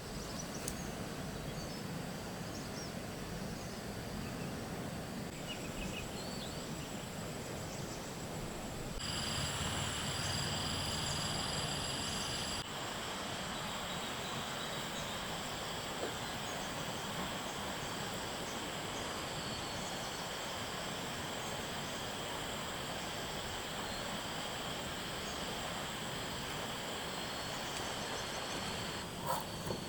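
Outdoor countryside ambience: a steady high insect drone with a few short bird chirps over an even background hiss, changing abruptly twice as the scene cuts.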